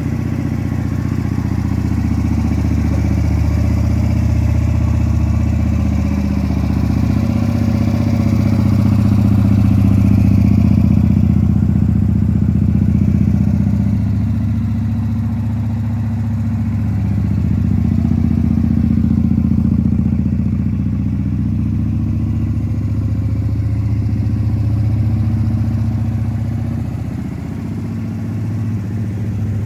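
Honda XL125V Varadero's 125 cc V-twin engine running steadily at low revs, with small swells in loudness.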